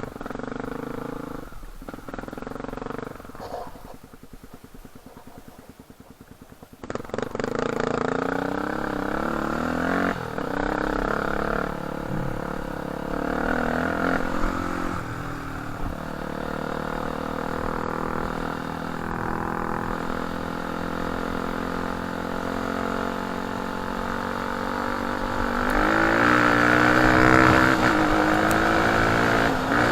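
Enduro motorcycle engine ticking over quietly at idle for a few seconds, then pulling away and running steadily under way, revving higher and louder near the end.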